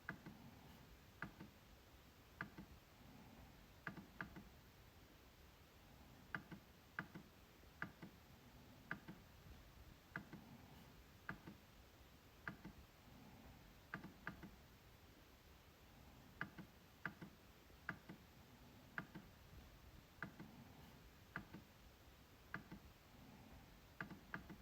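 MacBook trackpad being clicked: sharp single clicks about once a second at an uneven pace, some in quick pairs, each with a dull low knock under it.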